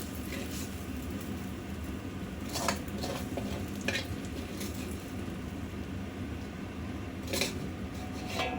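Eggplant frying in plenty of oil in a pan, with a steady sizzle. A utensil scrapes or clinks against the pan a few times as the eggplant is stirred.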